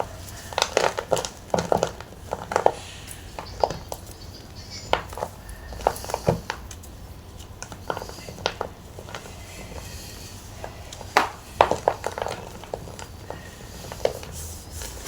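Block of gym chalk being crunched and crushed up close, giving irregular clusters of sharp, brittle crackles with short pauses between them; the loudest crunches come about eleven seconds in.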